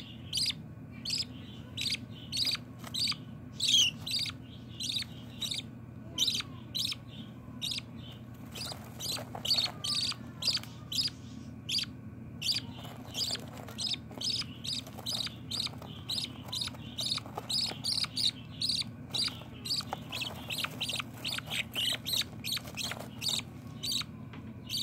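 Baby budgerigar chicks cheeping, short high calls repeated about twice a second.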